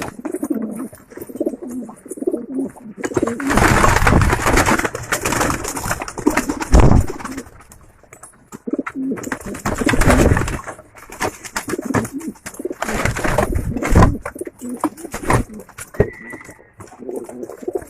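Domestic pigeons cooing, with several loud noisy bursts over them, the loudest about seven seconds in.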